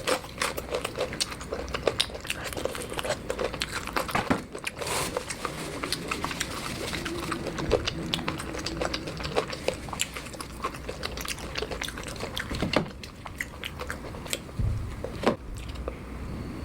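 Close-miked eating: a person biting and chewing food, with many sharp crackling clicks throughout.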